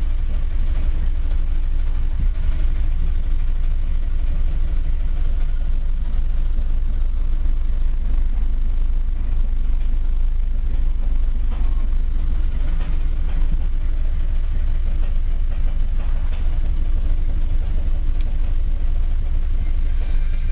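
1966 Mercedes-Benz 200 (W110 Heckflosse) four-cylinder petrol engine idling steadily just after a cold start.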